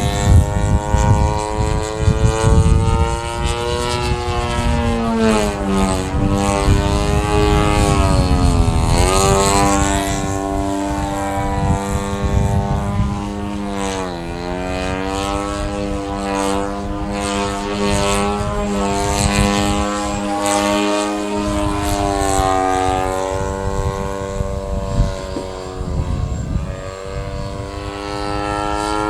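Model aircraft engine and propeller of a radio-controlled Ultimate biplane in flight: a continuous buzzing drone that rises and falls in pitch as it manoeuvres, with two sharp drops in pitch near the middle as it passes by.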